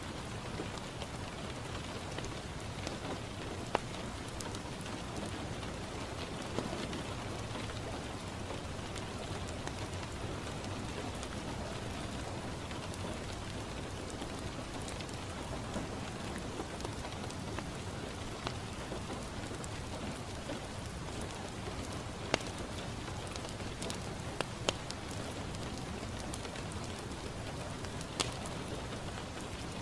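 Steady rain falling on a window, with a few sharp crackles and pops from a wood fire in a fireplace.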